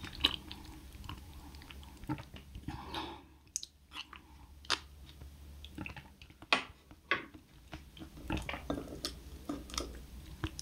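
Close-miked mouth chewing of soft rice porridge with sea urchin roe, heard as irregular small clicks and smacks.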